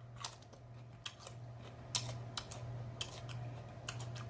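Close-miked crunching and chewing of a raw jalapeño pepper: a string of sharp, irregular crisp crunches over a faint steady low hum.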